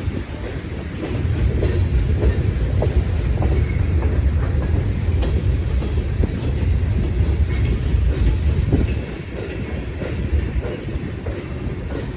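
Train cars rolling past at track side, a heavy low rumble with wheels clicking over the rail joints. The rumble eases slightly about nine seconds in.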